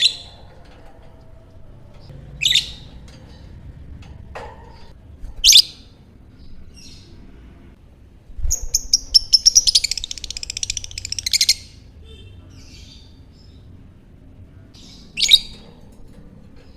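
Lovebird calling: single sharp chirps every few seconds, and about halfway through a rapid chattering trill lasting about three seconds, the long 'ngekek' chatter.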